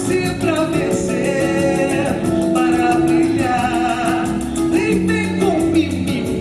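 Live samba band playing, with held, sliding vocal lines over it.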